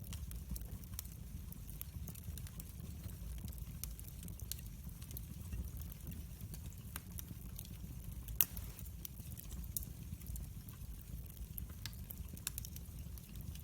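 Wood fire crackling in a fireplace: scattered small pops and snaps over a low rumble of the flames, with one louder pop about eight seconds in.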